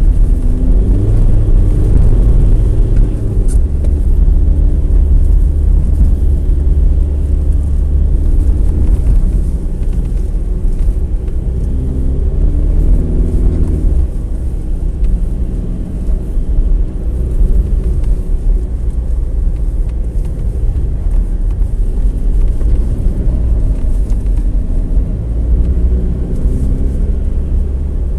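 Skoda Octavia 4x4 driving through snow, heard from inside the cabin: a steady engine and drivetrain rumble, with the engine note rising and falling a few times as the revs change.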